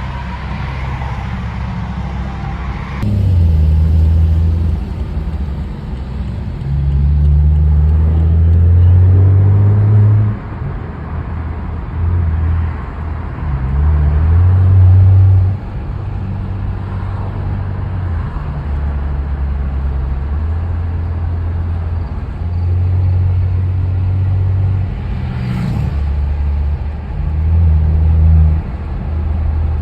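Straight-piped exhaust of a BMW F10 heard from inside the car while driving, getting loud about six times as the engine is accelerated in short pulls, easing back to a lower steady running sound between them.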